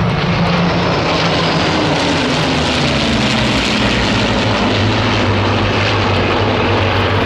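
Aircraft engine running loud as the plane flies past, its engine note dropping in pitch partway through.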